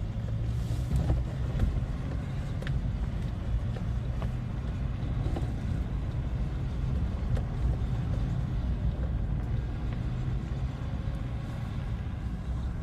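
Small off-road vehicle engine, a quad or dirt bike, running with a steady low drone.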